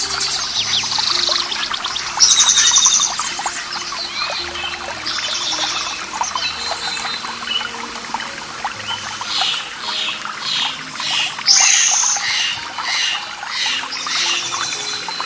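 Birds singing over trickling, splashing running water. Several short bursts of song sound in the first half, and a run of quick repeated notes comes about two thirds of the way in.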